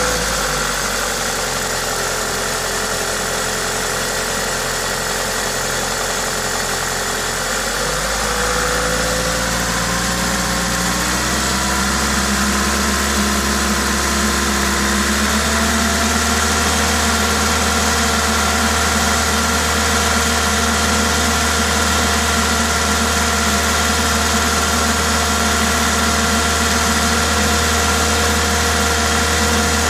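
Toyota 2ZZ-GE 1.8-litre four-cylinder engine running, the noise its owner considers normal for it, with a steady hiss from the aftermarket induction kit. Its speed rises gradually from about eight seconds in and holds steady at the higher pitch from about fifteen seconds.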